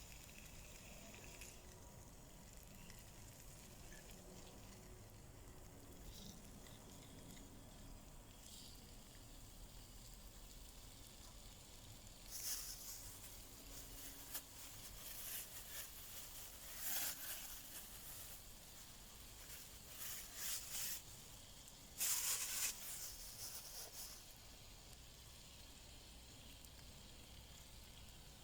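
Log campfire sizzling in several short hissing bursts between about 12 and 24 seconds in, over a faint steady background.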